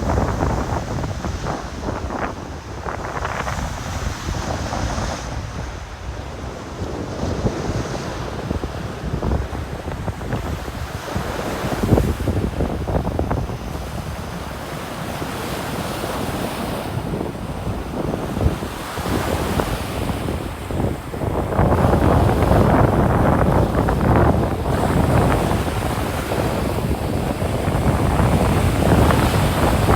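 Atlantic surf washing onto a sandy beach, with wind buffeting the microphone. The surf swells louder about two-thirds of the way through.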